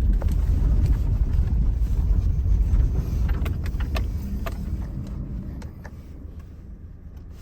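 Low rumble of a 2017 Subaru Forester driving through snow, heard from inside the cabin, with scattered clicks. It dies down over the second half as the car slows.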